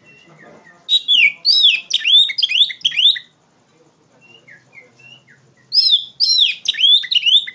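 Oriental magpie-robin singing loudly: two rapid bursts of sweeping, whistled notes, with a few soft single notes in the pause between them.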